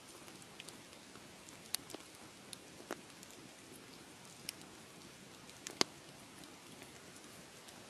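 Wood fire crackling in a fireplace: a soft steady hiss with scattered sharp pops, the loudest near the end.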